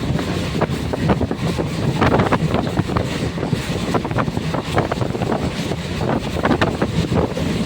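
Passenger train running: a steady rumble with irregular rattles and knocks, and wind buffeting the microphone.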